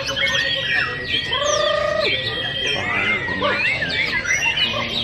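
White-rumped shamas (murai batu) singing, with rapid, varied whistles, trills and sliding notes from several birds overlapping. About a second and a half in, a held, wavering lower whistle stands out briefly.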